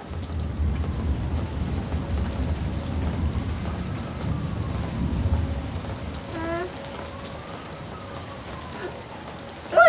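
Steady rain pouring down, with a low thunder rumble through the first six seconds or so that then fades. A child gives one short call about six and a half seconds in.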